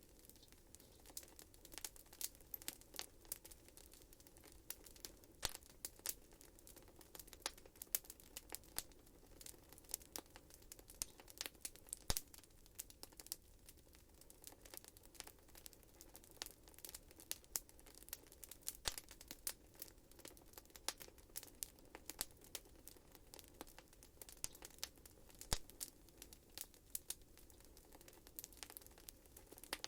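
Wood fire burning in a fireplace, crackling with many irregular sharp pops and snaps over a faint low hiss of the flames.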